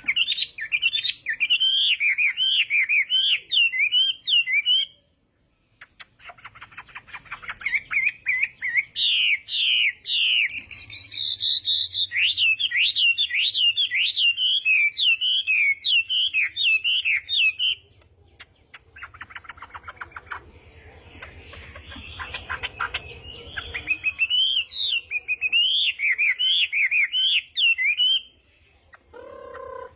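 Chinese hwamei (hoạ mi) singing its fighting song: long runs of rapid, varied warbled phrases. There is a short pause about five seconds in, a softer stretch in the middle and another pause near the end.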